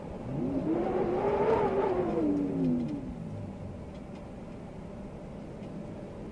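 A motor vehicle's engine going past, its pitch climbing for about a second and then falling away, the whole pass lasting about three seconds.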